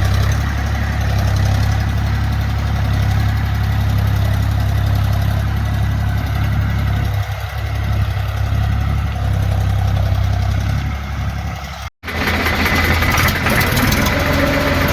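Tractor engine running steadily at a low, even speed. It cuts out for an instant about twelve seconds in, then carries on.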